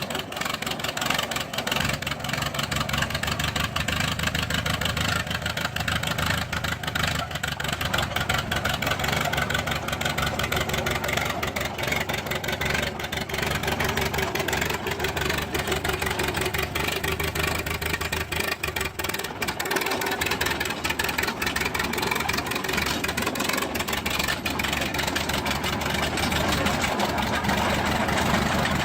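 Fordson E27N Major half-track tractor's four-cylinder side-valve petrol/kerosene engine running steadily at a low, even speed, growing slightly louder near the end.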